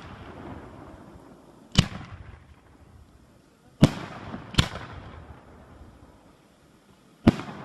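Fireworks shells bursting in the air: four sharp bangs at uneven intervals, the second and third close together, each trailing off over about a second.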